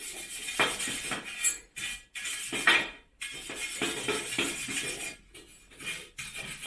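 Hand tools scraping and clinking on the cast-iron frame of an old roof skylight, in a run of uneven strokes with short pauses.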